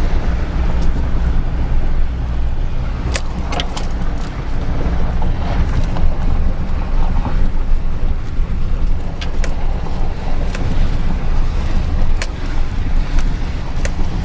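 A vehicle running slowly over a rough, muddy farm road: a steady low engine rumble with wind noise on the microphone, and scattered knocks and rattles as it bumps along.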